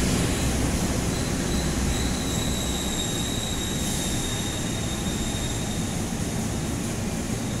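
Passenger train cars rolling along a station platform, a steady rumble of wheels on rails that slowly fades. A thin high-pitched wheel squeal sets in about a second in and dies away about six seconds in.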